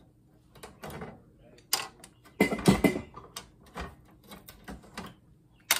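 Hand tools and loose parts clicking and clattering against the plastic and circuit board of a monitor being taken apart, in irregular knocks with a louder crunching scrape about two and a half seconds in.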